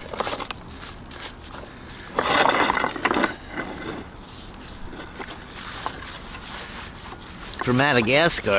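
Rough scraping and grating of broken granite scrap pieces rubbing and shifting against each other as they are handled, loudest for about a second a couple of seconds in, with scattered clicks. A wavering voice sound comes in near the end.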